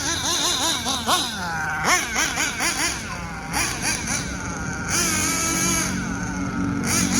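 Nitro engine of a Hobao Hyper VS RC buggy revved in quick repeated blips, each rising and falling in pitch, then running at a steadier note from about five seconds in.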